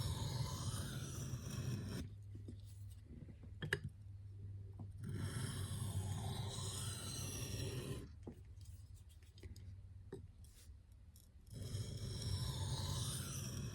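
Steel knife blade of hard Nitro-V stroked freehand across a sharpening stone in alternating passes: a scraping rasp in three runs of about three seconds each, with quieter gaps and a couple of light clicks between them.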